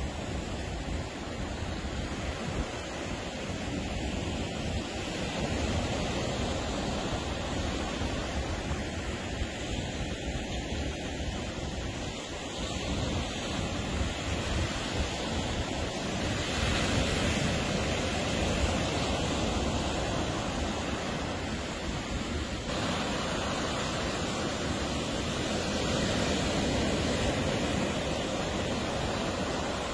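Ocean surf breaking and washing on the beach, a steady rushing noise that swells and eases, with wind buffeting the microphone.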